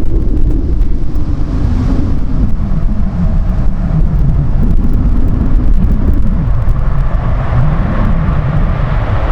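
A train running past: a loud, steady low rumble with wavering tones, and higher tones building near the end.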